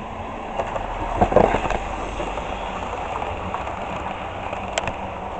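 Model train running along the layout's track: a steady rolling rumble with a louder rattle about a second in and a single sharp click near the end.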